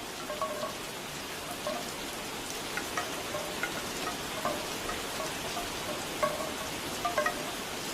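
Steady rain with bamboo wind chimes knocking irregularly over it, short hollow wooden clonks.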